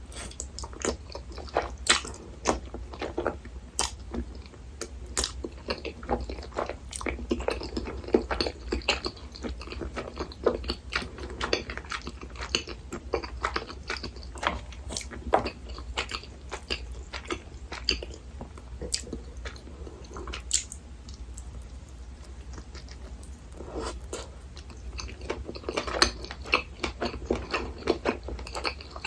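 Close-miked eating: a person chewing and biting food, with many small wet clicks and crackles that come in busy stretches and ease off for a few seconds around two-thirds of the way through. A steady low hum runs underneath.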